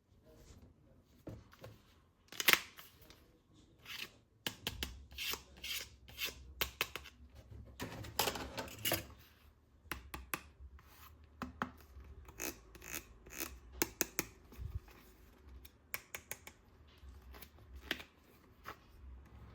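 Hands handling plastic toy guns and their packaging: an irregular run of clicks, scrapes and rubbing, with one loud sharp click about two and a half seconds in.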